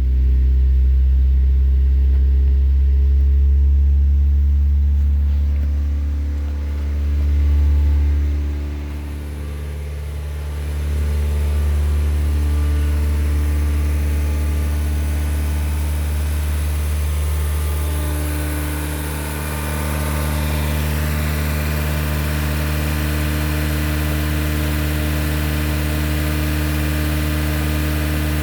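1999 Honda Civic's 1.6-litre four-cylinder engine running steadily, swelling briefly about seven seconds in, dipping, then settling back to an even run.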